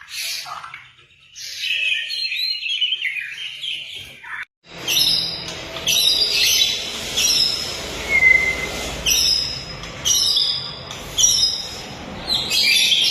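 White-rumped shama (murai batu) song played as a lure recording. One varied stretch of song is followed by a sudden break about four and a half seconds in. After that comes a different recording of short, high phrases repeated roughly once a second.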